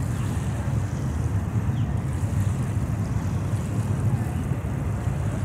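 Distant freight train running along the far riverbank, a steady low rumble, with wind buffeting the microphone.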